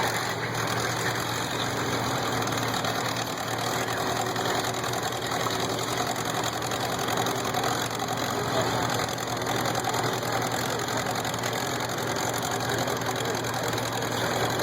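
A 1952 farm tractor's engine running steadily at a constant speed.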